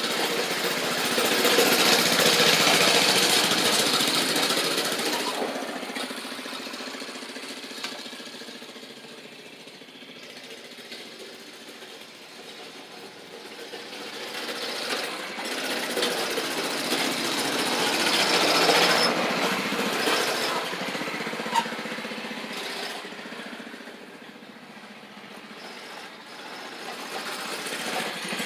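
Mini bike's small gas engine running as the bike rides away and comes back, swelling loud early, fading, loud again a little past halfway, then fading and rising once more near the end.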